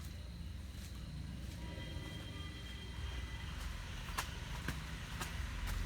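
Diesel engine of a JCB 3DX backhoe loader running steadily, with a faint high whine in the first half. About four sharp knocks come in the second half.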